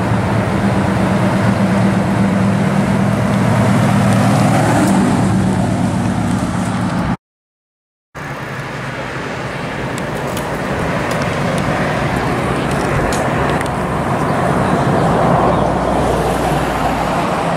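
Custom 1930s Chevrolet hot rod's engine running as the car drives slowly past, a steady low drone. It cuts off suddenly for about a second, then classic cars idle and roll by in slow cruise traffic, the engine noise building toward the end.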